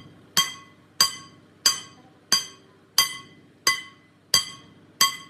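Hammer striking steel in a steady rhythm: eight evenly spaced blows, about three every two seconds, each ringing on briefly with a bright metallic tone.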